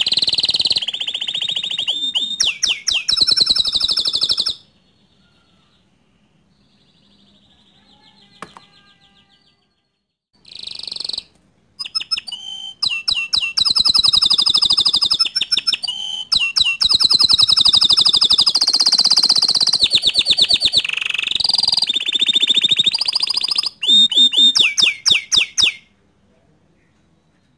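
Domestic canary singing long phrases of rapid trills and high whistles. The song breaks off for several seconds after the first phrase, then resumes and stops shortly before the end.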